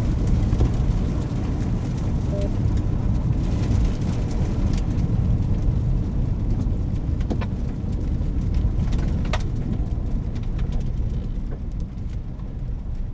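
Car driving, with a steady low road and engine rumble and scattered sharp clicks and knocks.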